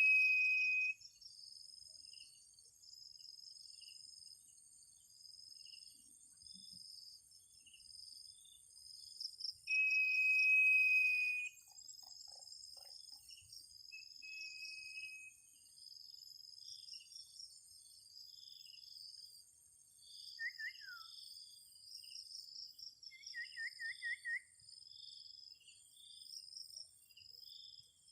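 Steady, pulsing chorus of crickets and other insects. Over it come long, level whistled bird notes: one at the start and a louder one about ten seconds in, then a short faint one. Later there is a quick falling chirp and a short rapid trill.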